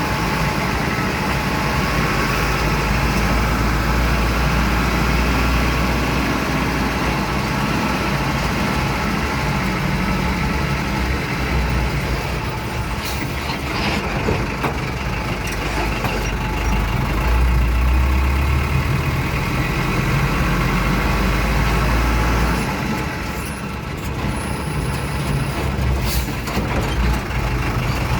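Truck driving along a road: steady engine and road rumble, with a few sharp knocks or rattles scattered through it and a short dip in level about two-thirds of the way in.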